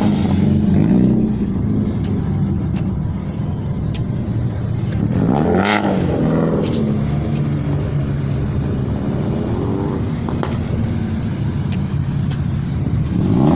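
Car engines running and being revved as cars drive slowly past, with a sharp rev about halfway through and another rising and falling rev a few seconds later.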